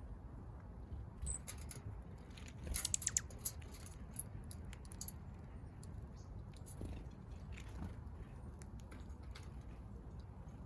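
Small backyard birds pecking at seed, a scatter of light clicks with a quick run of them about three seconds in.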